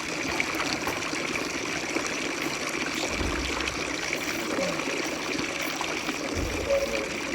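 Steady running water, with two short low rumbles about three seconds apart.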